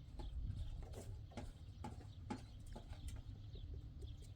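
Hooves clopping on stony ground in uneven steps, over a steady low rumble.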